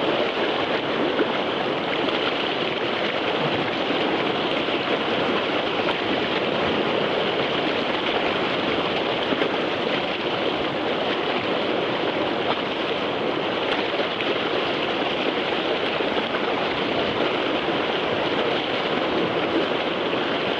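Whitewater of a river rapid rushing steadily, an unbroken roar of moving water.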